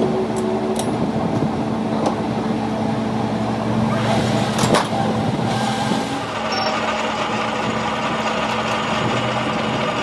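A motor running steadily with a constant hum, with a few sharp metallic clicks, one of them about halfway through.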